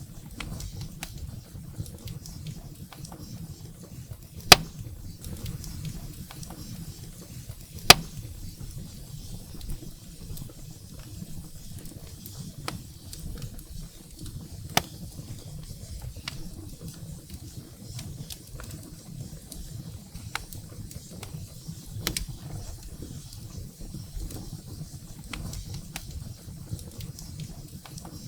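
Firewood burning in a fireplace: a steady low rush of the flames with irregular crackles and pops, two sharp loud pops about four and eight seconds in.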